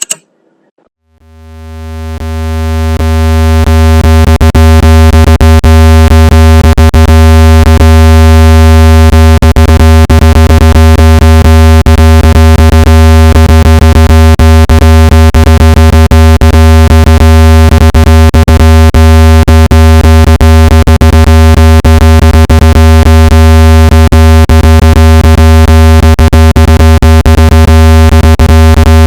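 Electronically generated speaker-cleaning tone: a loud, steady, low buzzing tone with many overtones. It fades in over the first few seconds, then holds unchanged. It is made to vibrate dust and moisture out of a phone speaker.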